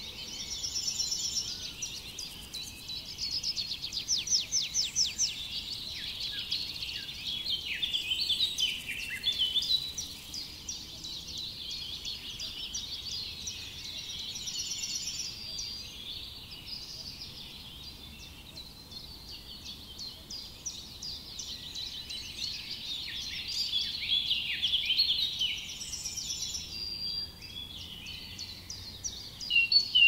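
Several songbirds singing at once: a dense chorus of quick, high chirps and trills, quieter for a few seconds in the middle.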